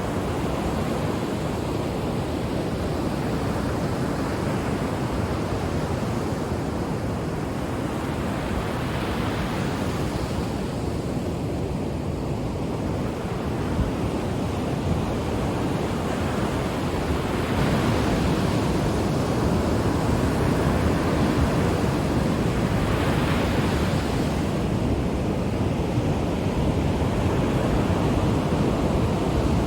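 Ocean surf: a continuous rush of breaking waves with wind, swelling as waves break a few times, louder in the second half.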